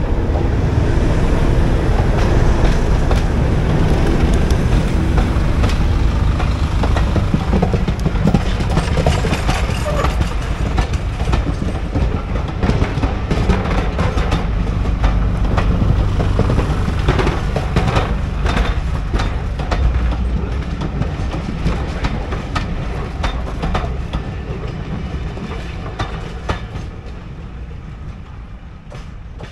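A diesel-hauled passenger train passes close by: a heavy low rumble, then the coaches' wheels clicking over rail joints. The sound fades over the last several seconds as the train draws away.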